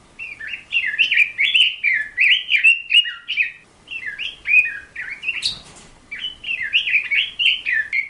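A bird chirping in fast runs of short, sliding notes, broken by brief pauses, with a short burst of noise about five and a half seconds in.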